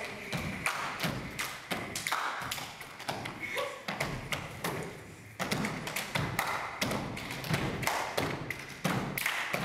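Rapid, irregular thumps and taps of feet on a stage floor, several a second, with a short lull about halfway through.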